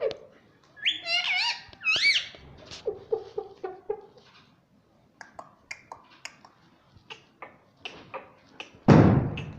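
Indian ringneck parrot calling: a few warbling, whistle-like calls about a second in, then quick chattering and scattered short clicks and chirps. A loud, brief noise burst near the end.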